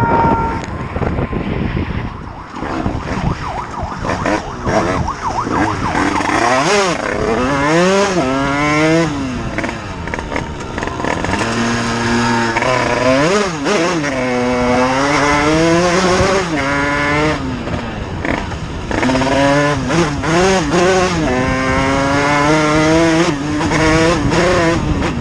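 Engine of a ridden quad bike or motorcycle revving, its pitch repeatedly climbing and dropping back as it accelerates and eases off, over steady wind and road noise.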